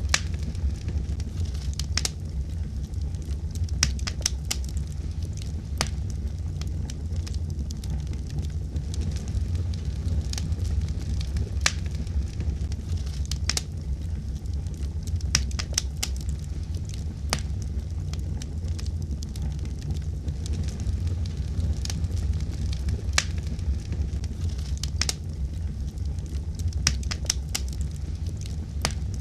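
Fire burning in a fireplace: a steady low rumble with frequent sharp crackles and pops at irregular intervals.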